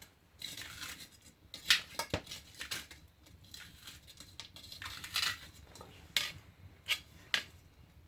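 Metal cooking gear clanking and scraping as it is pulled out and handled, a string of sharp, separate clanks with short scrapes between them.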